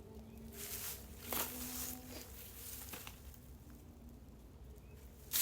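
Soft rustling and scuffing from garden clean-up work. A few louder swishes come about half a second and a second and a half in, and a sharper one right at the end.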